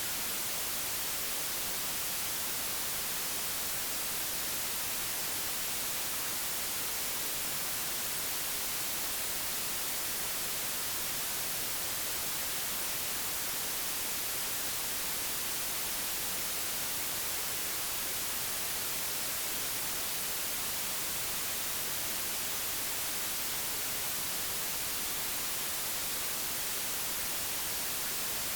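Digitally generated white noise: a steady, even hiss with no changes, brightest in the treble.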